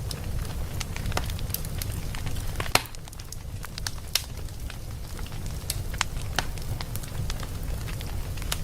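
Wood fire burning in a fireplace: a steady low rumble with irregular crackles and pops, the sharpest pop about a third of the way in.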